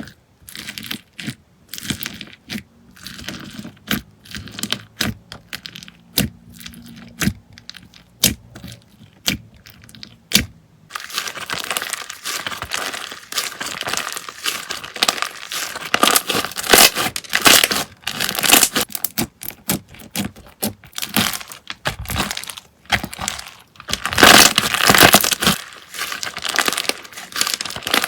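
Slime being squeezed and poked by hand, giving sharp sticky pops and clicks, spaced apart at first, then a dense, continuous crackling from about eleven seconds in.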